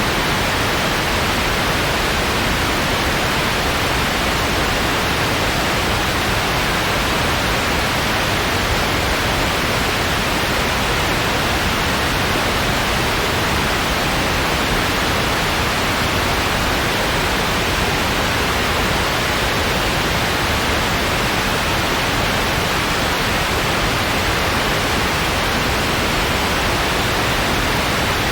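Steady, unchanging synthetic white noise: an even hiss with no rises, breaks or other events.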